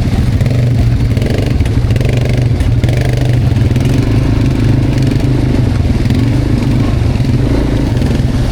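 Quad bike (ATV) engine running steadily as it is ridden, a low drone whose pitch wavers slightly.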